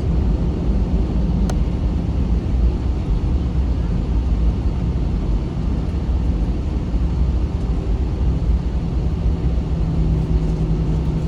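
Cabin noise of an Airbus A321 on the ground: a steady low rumble with a constant hum, with one faint click about a second and a half in.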